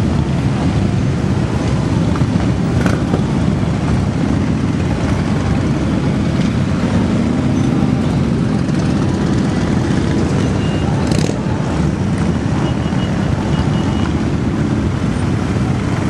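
Many motorcycle engines running together in a steady, continuous drone, with a few faint clicks.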